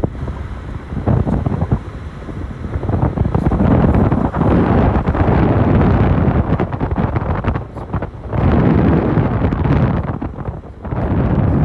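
Wind buffeting the microphone in loud, uneven gusts, with short lulls about two-thirds of the way through and near the end.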